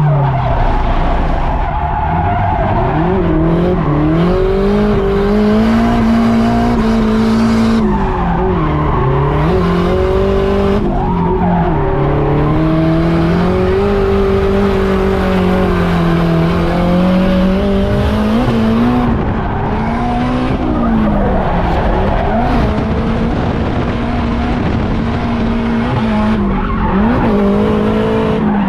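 A turbocharged Nissan Silvia drift car's engine held high on the throttle, its pitch rising and falling over and over, with tyres skidding and squealing as the car drifts.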